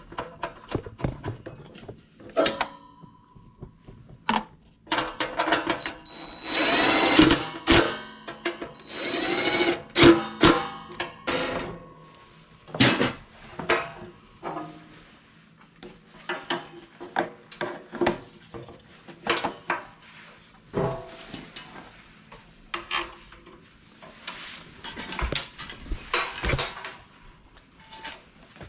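A power drill running in two short bursts, rising in pitch as it spins up, amid many clicks and knocks of tools and metal parts being handled.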